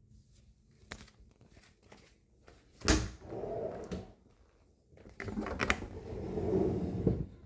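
A sharp knock followed by about a second of rattling rumble, then after a pause a longer stretch of rattling with clicks: something being slid and handled, like a drawer or rack.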